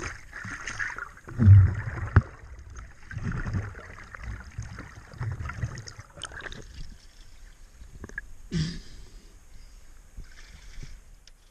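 A scuba diver breathing underwater through a regulator: hissing inhalations and several irregular bursts of bubbling, rumbling exhaled air.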